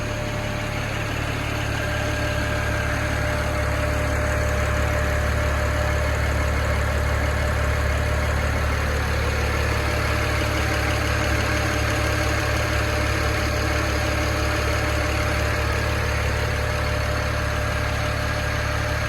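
Stock 2008 BMW 135i's twin-turbo 3.0-litre straight-six (N54) idling steadily during its cold-start warm-up, a little louder over the first few seconds and then even.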